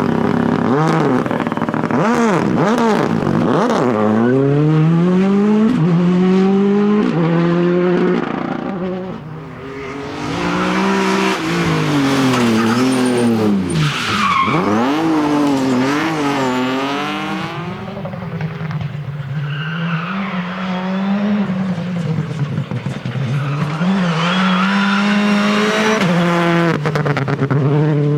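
Rally cars at speed on a stage: engines revving hard up through the gears with sharp drops in pitch at each shift, cars sweeping past, and tyres skidding.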